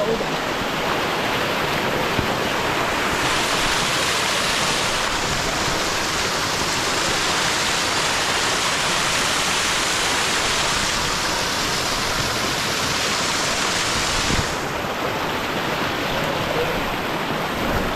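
Mountain river rushing and splashing over rocks and small falls, a steady loud rush of water. It grows fuller and hissier about three seconds in, then drops back a few seconds before the end.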